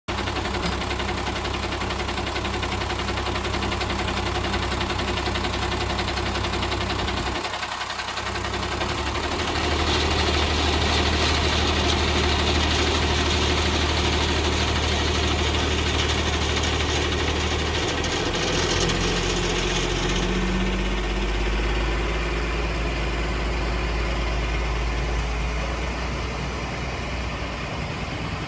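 An engine idling steadily, dipping briefly about eight seconds in. A hiss rises over it between about ten and twenty seconds in, and the engine's low note drops to a deeper pitch around eighteen seconds in.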